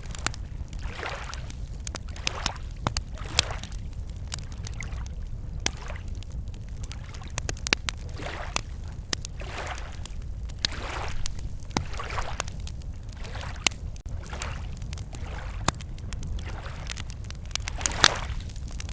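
Small lake waves lapping against the shore in soft swells every second or two, with a wood campfire crackling in scattered sharp pops, a loud cluster near the end.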